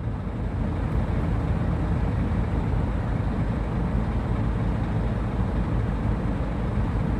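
Heavy diesel haul trucks' engines running, a steady low rumble that grows a little louder about a second in.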